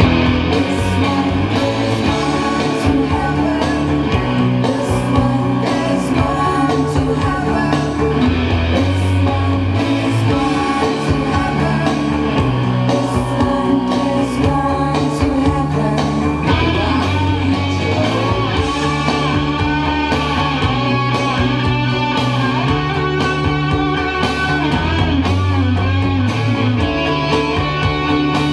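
Rock song with electric guitar, bass and singing, growing fuller about two-thirds of the way through.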